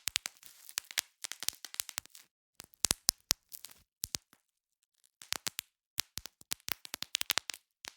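Bubble wrap being popped: irregular clusters of quick, sharp pops, with a pause of about a second around the middle.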